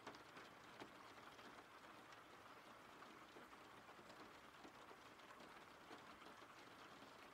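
Faint steady rain: an even hiss with the patter of many small scattered drops.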